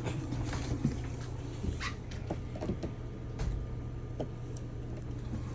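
RV furnace blower running with a steady low hum, with a few scattered light clicks and knocks over it.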